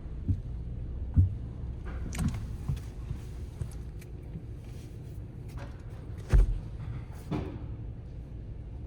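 Heard from inside a car riding through a conveyor tunnel car wash: a steady low rumble, with the wash equipment hitting the car in sharp thumps and short hissing sprays. The loudest thumps come about a second in and again about six seconds in.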